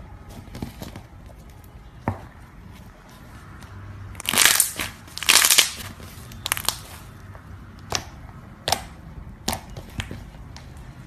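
Slime being squeezed and squished by hand, giving crunchy crackling sounds. Two longer squishes come about four and five seconds in, followed by a string of single sharp pops.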